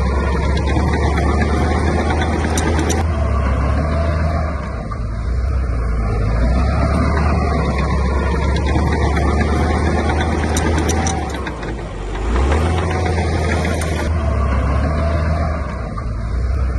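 Diesel engine of heavy earthmoving machinery running with a deep, steady note. It eases off briefly twice, about five and twelve seconds in, then picks up again, with a few faint clicks.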